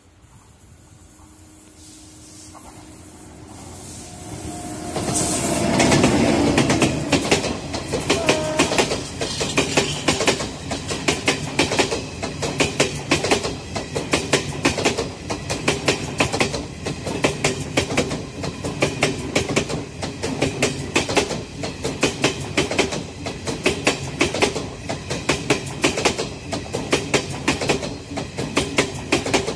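Passenger express train hauled by a WAP-7 electric locomotive, approaching and growing louder over the first five seconds. The locomotive passes close by about six seconds in, and then the coaches roll past with a fast, regular clatter of wheels over rail joints.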